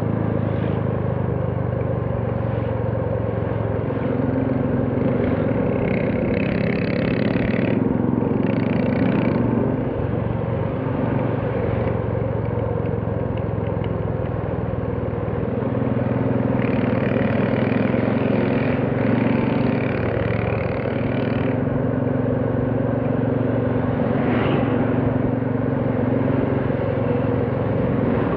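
Royal Enfield Classic 350's single-cylinder engine running while riding on the road, with road and wind noise. The engine note builds and eases in stretches, dipping briefly about ten seconds in.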